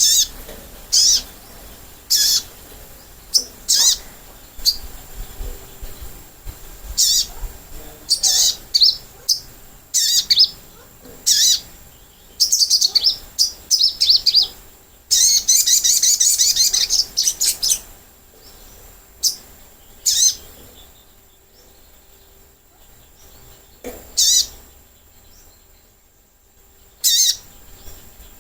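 Little spiderhunter (sogok ontong) calling: short, sharp high chips repeated at irregular intervals, with a long burst of rapid chattering calls in the middle and only scattered calls near the end.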